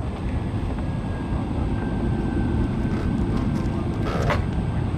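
Jet airliner engines running with a steady low rumble and a faint, thin, steady whine above it.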